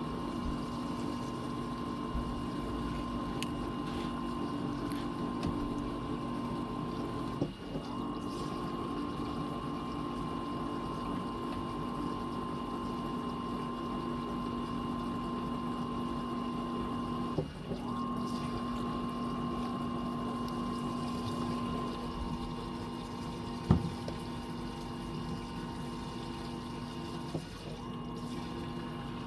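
Fisher & Paykel MW059 washing machine's drain pump running steadily with a hum and rushing water, pumping the wash water out. The hum briefly dips three times, about ten seconds apart, and a single sharp click comes about two thirds of the way through.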